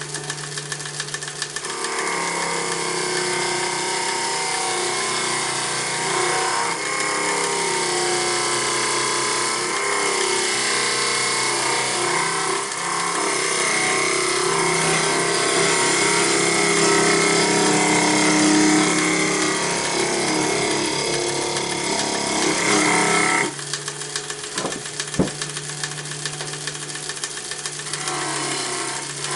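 Wood lathe running with a steady hum while a handheld turning tool cuts into the spinning wood, hollowing out the inside of a box. The cutting starts about two seconds in, stops a few seconds before the end, leaving the motor hum and a single click, then starts again just before the end.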